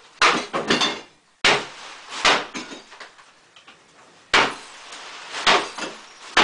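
Sledgehammer blows smashing into a bathroom fixture, about six hard strikes at uneven intervals. Each strike is followed by a short clatter of broken pieces.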